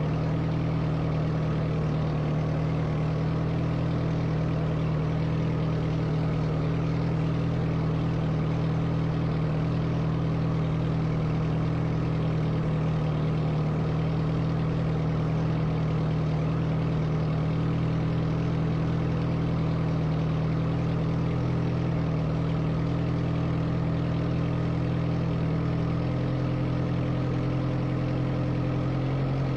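Carbureted Toyota 22R 2.4-litre four-cylinder engine idling steadily as it warms up after a cold start, with a slight change in its note near the end.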